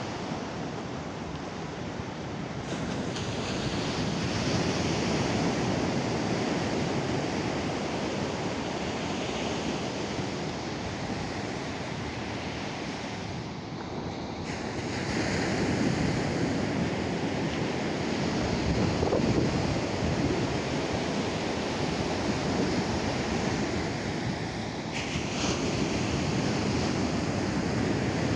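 Atlantic surf breaking on a beach: a steady wash of waves that swells and eases every several seconds.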